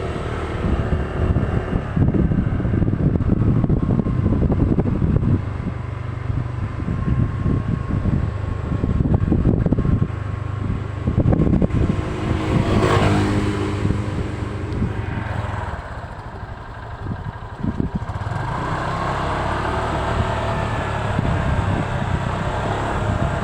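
Motorcycle engine running on the move, with wind buffeting the microphone in gusts.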